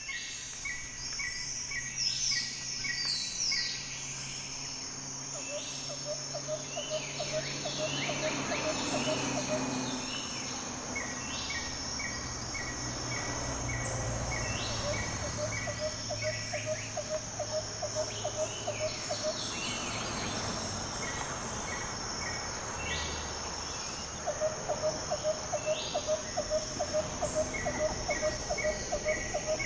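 Steady high-pitched drone of insects, with several birds calling over it: runs of short repeated notes, bursts of rapid lower pulses and a few falling whistles.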